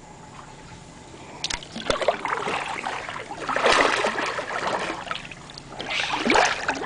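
Kayak paddle strokes splashing and dripping while the kayak scrapes through narrow mangrove branches. A brief sound near the end draws a startled reaction, and the paddlers think it sounded like a bird in the bushes.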